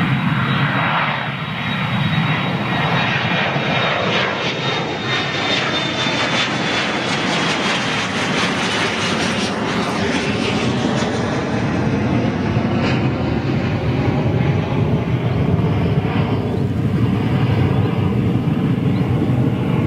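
Jet airliner's engines running loud and steady as the aircraft passes close by, with a high engine whine that slowly falls in pitch over the first half.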